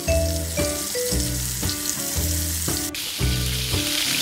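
Flour-coated prawns frying in hot oil in a pan: a steady sizzle that grows louder about three seconds in. Background music with a melody and bass plays along.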